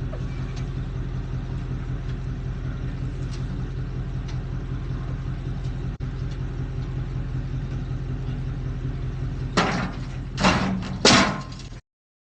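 Engine idling steadily. Near the end come three loud, sudden noises in quick succession, the last the loudest, and then the sound cuts off abruptly.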